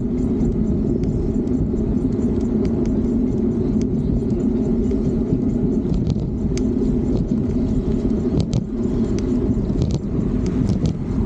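Steady low rumble of wind on the microphone and road noise from a moving electric bike, with scattered light clicks and rattles, a cluster of them in the second half.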